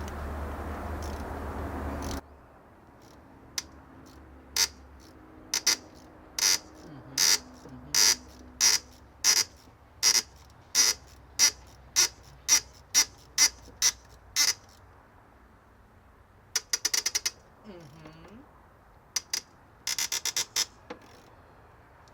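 Hand ratchet wrench working a bolt: a run of short sharp clicks at about one and a half a second, then two quick rattling click trains near the end. A steady noise runs at first and cuts off about two seconds in.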